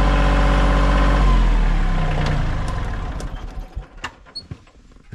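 Kioti tractor's diesel engine idling steadily, then switched off about a second in, its pitch sinking as it winds down to a stop over the next two seconds; a few light knocks follow.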